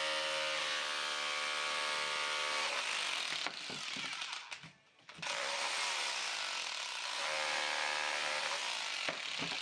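Electric power tool running under load against brick, a steady motor whine. It stops briefly about four and a half seconds in, then starts again.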